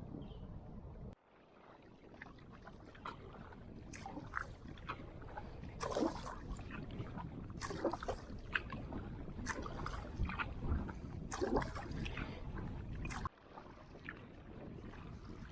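Water splashing and sloshing around a kayak under way, with irregular splashes every second or so over a steady rush of wind on the microphone. The sound drops away abruptly about a second in and again near the end.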